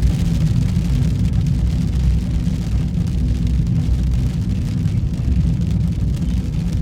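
Steady road noise and engine drone heard inside a moving vehicle's cab: a continuous low rumble with a faint hum.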